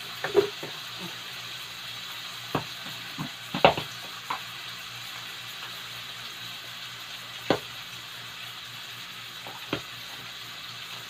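Sliced onion and garlic sautéing in hot oil in a stainless steel pot, a steady frying sizzle. About half a dozen sharp knocks and clinks break in, the loudest near the start and about three and a half seconds in, as jars and bottles are handled on the shelf above.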